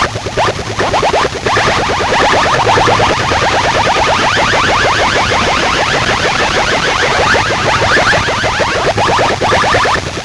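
Competition DJ sound-box speaker rig blasting an electronic sound effect: a fast, even train of short rising chirps, roughly ten a second, over a low hum.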